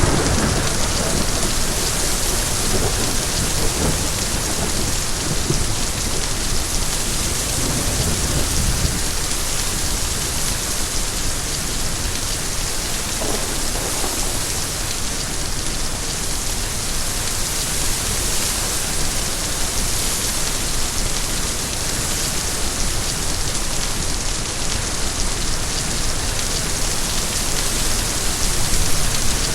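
Steady heavy rain with thunder: a thunderclap fading out in the first seconds, then fainter rolls of thunder a few seconds later and again near the middle, under a constant hiss of rain.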